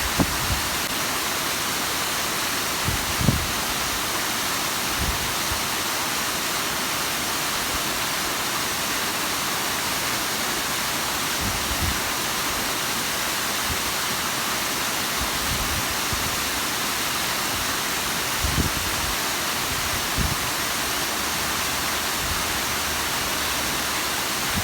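Bigăr waterfall's water falling and splashing in a steady, even hiss. A few brief low thumps stand out now and then, the clearest about three seconds in and near the end.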